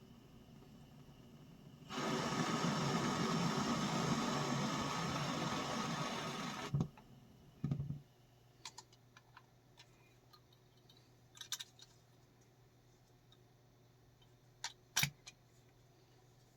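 Gas burner flame hissing steadily for about five seconds, starting suddenly and cut off with a click, followed by a couple of knocks and a few light clicks.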